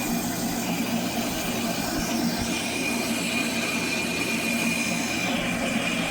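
Johnson Model J horizontal band saw running with its blade cutting through a steel railroad rail: a steady motor and drive hum with a thin, high, steady squeal of the blade in the steel.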